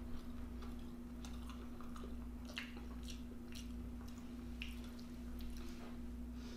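Close-miked eating sounds: a person chewing food, wet squishing with scattered sharp mouth clicks, over a steady low hum.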